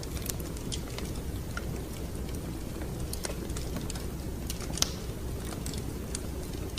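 Wood fire crackling: a steady low rumble of flames with scattered sharp pops and snaps, one louder pop about five seconds in.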